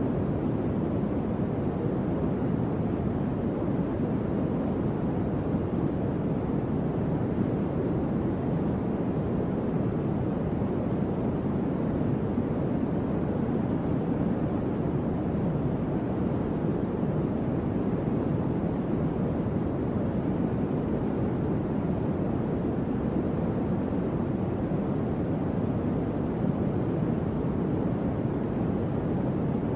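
Electric fan running at a steady speed: an even, low rush of air with no changes.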